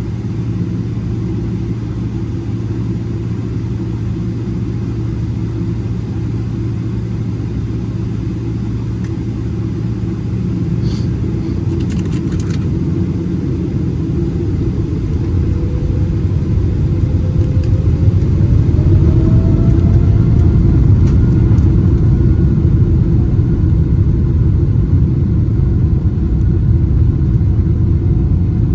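Boeing 777-300ER cabin rumble heard from a window seat. About halfway through, the engine whine rises in pitch and the rumble grows louder as the engines spool up. A few light clicks come shortly before the rise.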